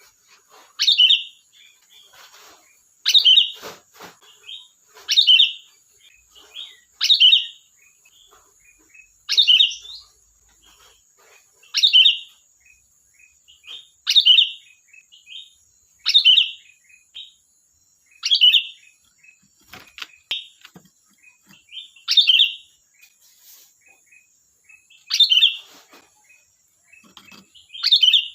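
Sooty-headed bulbul (kutilang) singing a loud, short phrase about every two seconds, with soft chirps in between.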